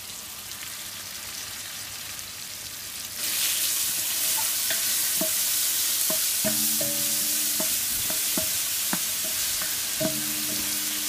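Chopped onion, garlic and grated ginger sizzling in hot olive oil in a pan, with whole spices and dried chillies. The sizzle jumps louder about three seconds in as the ginger goes into the oil, with scattered small pops after.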